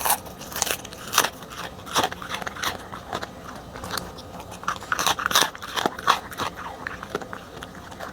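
A corgi chewing and crunching on a whole fish, in quick irregular crunches and bites.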